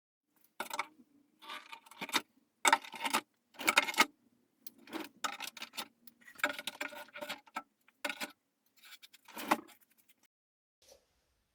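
Irregular clicking and clattering of small hard objects being handled, loudest about three and four seconds in, over a faint steady hum.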